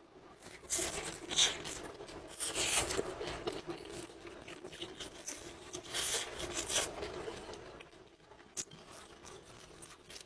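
Close-miked eating sounds: bites and chewing in three louder bursts, quieter toward the end with a couple of sharp clicks.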